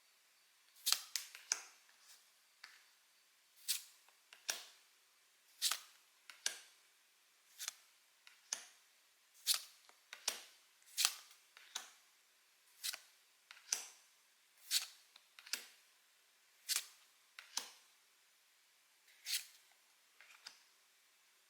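Pokémon trading cards handled one at a time, each giving a crisp snap or click, roughly one a second and sometimes two in quick succession.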